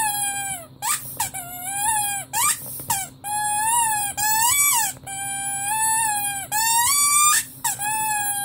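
Rubber squeaky toy squeezed over and over: a run of about eight pitched squeaks, some short and some held for over a second, each wavering in pitch, with short gaps between.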